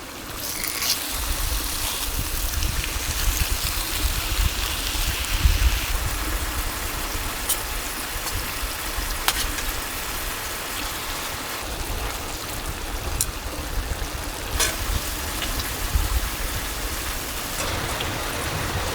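Steady rushing water noise with a low rumble underneath, and a few faint clicks about halfway through and again near the end.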